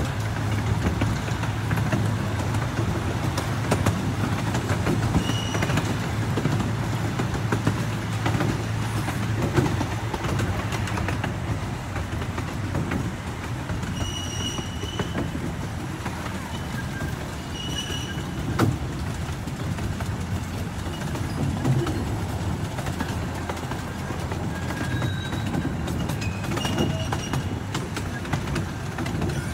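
Open passenger car of a small amusement-park train rolling along its track: a steady rumble and clatter of wheels on rails, with a low hum that fades out about ten seconds in.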